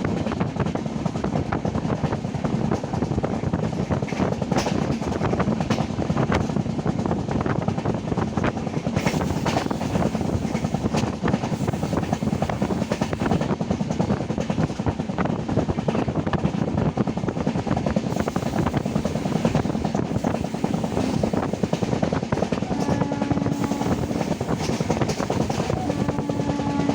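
Passenger train running, with a steady rattle of wheels and coach over the track heard from on board. Near the end a steady pitched tone sounds twice briefly over the running noise.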